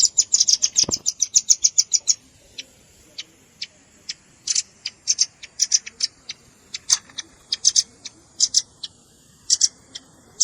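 Velvet-fronted nuthatch calls: a fast trill of sharp, high chips, about ten a second, for the first two seconds, then scattered single and paired chips.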